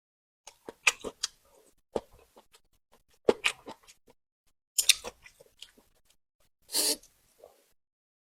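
Close-miked eating sounds: irregular chewing with sharp crunches and mouth clicks, and a longer noisy burst near the end.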